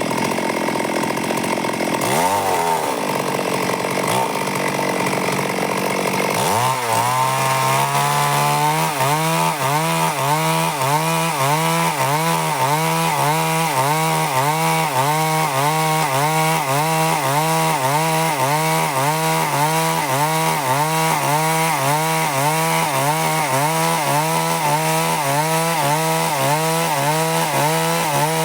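Stihl MS 382 two-stroke chainsaw cutting lengthwise through a log to mill a board. Its engine note dips and recovers several times in the first few seconds, then settles into a steady note under load with a regular wobble about twice a second.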